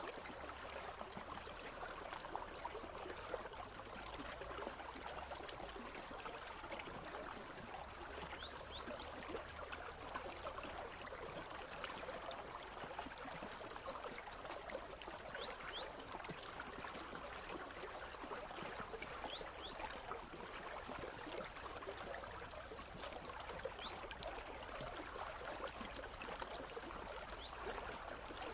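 Country stream flowing steadily, a continuous watery rush, with a few short, faint high chirps scattered through it.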